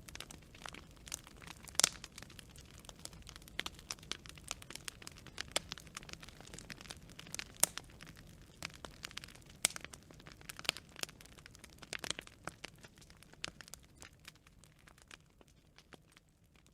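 Wood fire crackling and popping: irregular sharp pops and snaps of burning branches over a low, soft rush of flames, growing sparser and quieter near the end.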